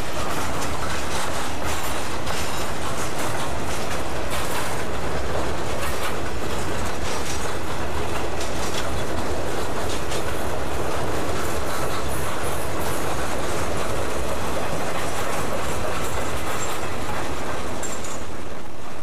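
Guilford Rail freight train's boxcars and tank cars rolling past at close range: a steady rumble of steel wheels on rail with a continual clickety-clack over the rail joints.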